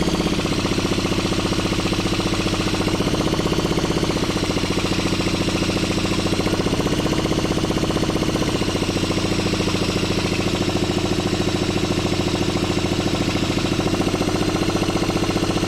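1974 Honda XL100's small single-cylinder four-stroke engine being spun over by an electric drill on the crank, with the drill whining and the engine turning over steadily without catching.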